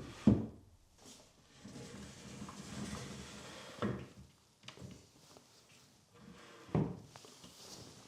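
Household handling noises in a small room: three separate knocks, the loudest just after the start and the others about four and seven seconds in, with quiet rustling and shuffling between them.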